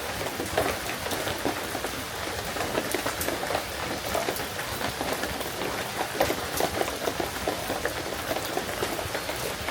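Steady rain falling, with many separate drops tapping close by.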